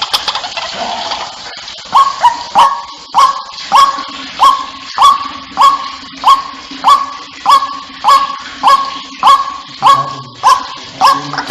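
White-breasted waterhen calling, a lure call: a steady run of loud, harsh notes, each sliding up and holding, about one and a half a second, beginning about two seconds in after more jumbled calling.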